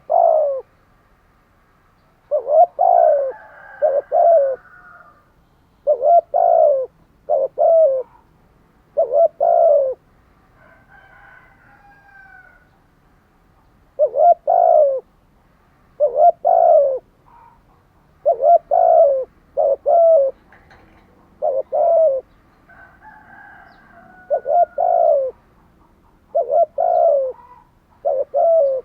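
Spotted dove cooing in repeated phrases of short, low coos, pausing for a few seconds near the middle. Fainter, higher chirps of small birds come between the phrases.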